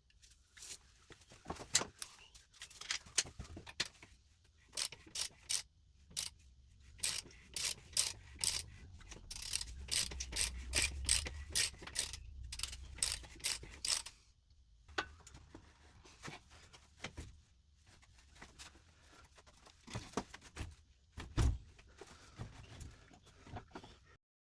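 A long run of sharp, irregular mechanical clicks and clatter, densest in the middle, with one heavier knock about 21 seconds in.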